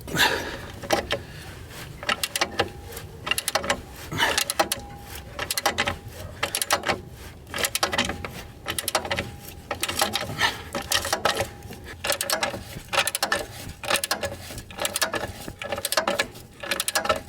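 Irregular mechanical clicking and clattering: many small knocks, several a second.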